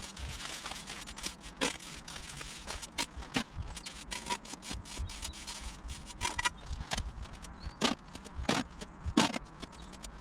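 Irregular scraping with scattered light knocks and clicks, the sound of hand work on paving slabs and mortar.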